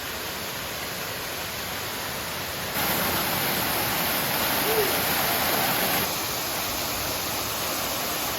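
Rushing water of a mountain creek cascade, a steady hiss that jumps louder about three seconds in and drops back about six seconds in.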